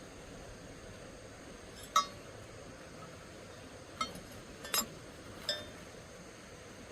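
Four sharp clinks of hard objects striking each other, each with a brief ringing tone: one about two seconds in, then three closer together a couple of seconds later, over a faint steady hiss.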